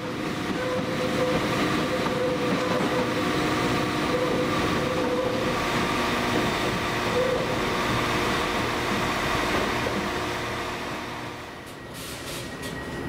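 Passenger train moving slowly past through the station: a steady running rumble with several steady whining tones on top. Just before the end the sound cuts to a quieter, different hum.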